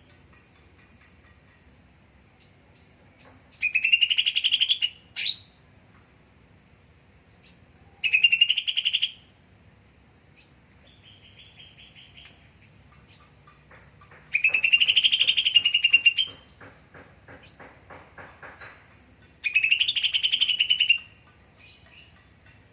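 Green leafbird (cucak ijo) singing: four loud, rapid trilled phrases, each a second or two long, with pauses between them filled by softer scattered chirps. A thin steady high whine sits under the song throughout.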